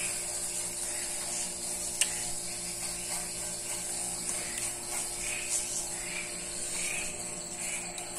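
A person chewing food, with soft regular chewing noises about one and a half times a second and a single sharp click about two seconds in, over a steady low hum.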